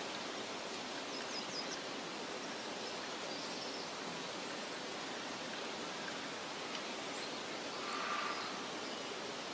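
Outdoor meadow ambience: a steady, soft hiss of wind and rustling vegetation, with a few faint, short, high bird chirps.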